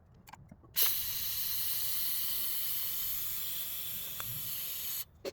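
A jet of pressurised gas hissing steadily for about four seconds, starting abruptly about a second in and cutting off sharply.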